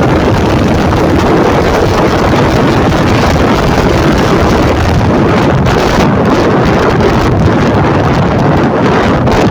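Loud, steady wind rush buffeting the microphone of a motorcycle being ridden, with the bike's engine and exhaust noise blended underneath.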